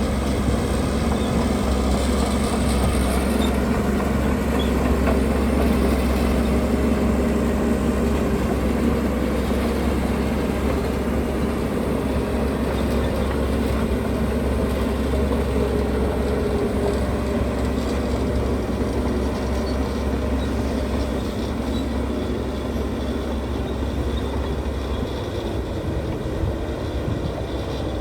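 Diesel engine of heavy earthmoving machinery running steadily under work, a deep low drone with mechanical clatter above it, easing slightly near the end.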